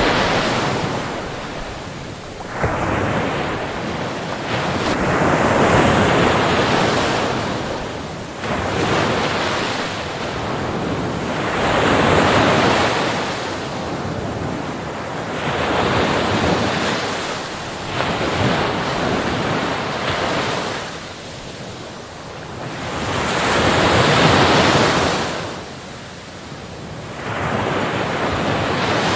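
Ocean waves breaking on a beach, each surge of surf swelling and then washing out, about every three to four seconds.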